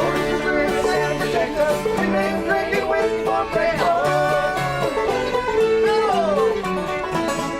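Bluegrass-style string band music with banjo picking, including a few notes that slide in pitch.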